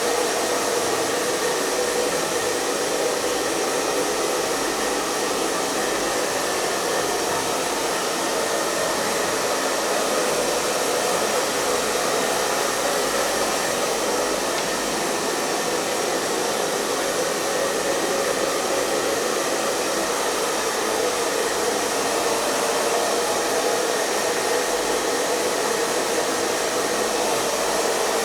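Hair dryer running continuously at a steady setting: an even, unchanging rush of blown air and motor noise with a slight hum in the lower middle.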